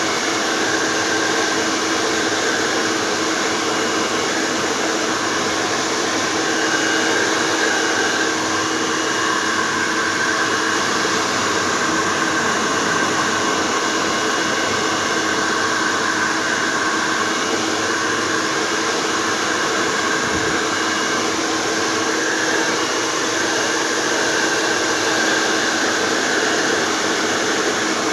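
Handheld hair dryer running steadily: a constant rush of blown air over a steady motor hum, unchanged throughout.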